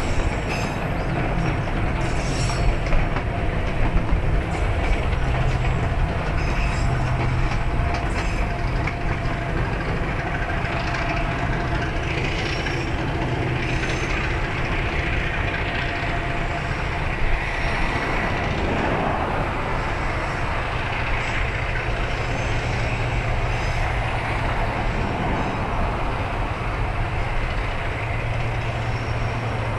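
East Broad Top narrow-gauge diesel locomotive #19 running with its excursion train: a steady engine drone under rolling noise, with a run of wheel clicks over rail joints in the first several seconds.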